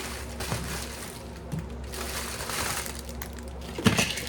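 Packaging rustling and crinkling as a small product is unwrapped by hand, with a sharp knock near the end.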